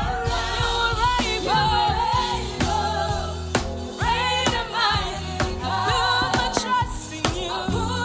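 Live gospel worship singing with a band: sung vocals over bass, keys and drums.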